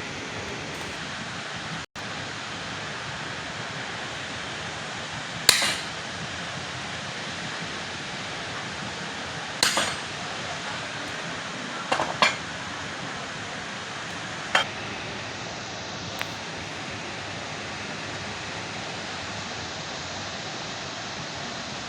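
About five sharp hammer blows on metal, each with a short ring, spaced irregularly (two close together about halfway), over a steady hiss of background noise.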